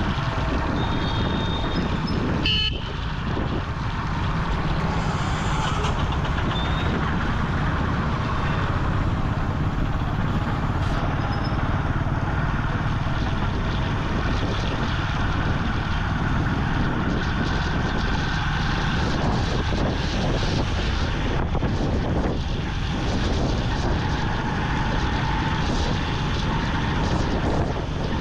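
Vintage Yamaha motorcycle riding through city traffic in the rain: steady engine, wind and wet-road noise, with a short dip in loudness a bit under three seconds in.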